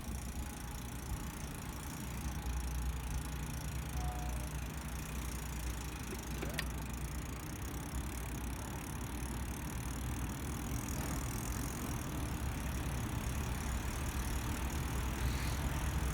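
Steady riding noise from a bicycle rolling along a street: a low rumble with a few faint clicks.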